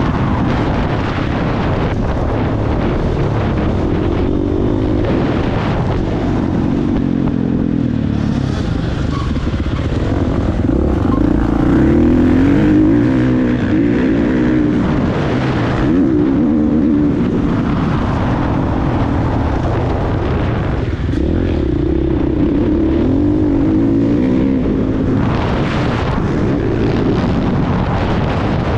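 Motocross bike engine being ridden hard, revving up and down again and again as the throttle opens and closes.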